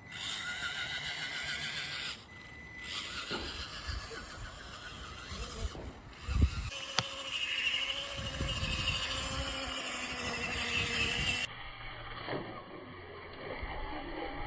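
Electric RC crawler driving, its motor and gears whining, in several short clips with abrupt cuts between them, and a sharp knock about six and a half seconds in.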